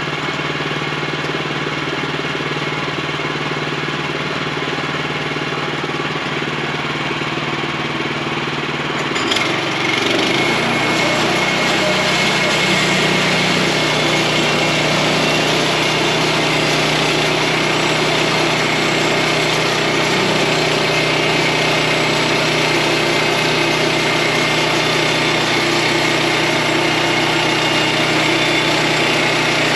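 Portable sawmill's gasoline engine running at idle, then throttled up about nine seconds in and running steadily at speed, louder and with a harsher high-pitched edge.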